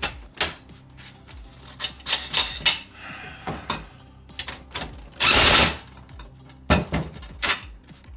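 Metal parts of an Alaskan chainsaw mill and tools being handled during assembly: irregular knocks and clinks, with one loud rasping burst lasting about half a second, a little past five seconds in.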